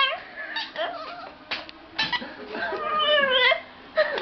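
A dog whining in high-pitched, drawn-out 'talking' calls: a few short ones, then a longer call about three seconds in whose pitch bends.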